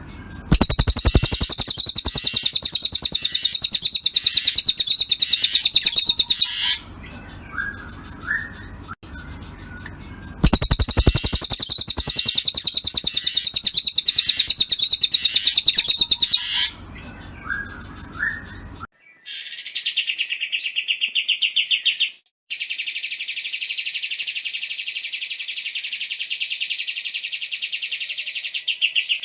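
White-rumped shama (murai batu) song: two long, fast, high-pitched trills of about six seconds each, with short chirps between them. Near the end a different, cleaner recording of the same kind of rapid trill begins.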